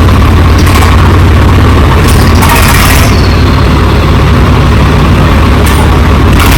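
Tractor diesel engine running steadily at close range, loud, with short hissing surges every second or two.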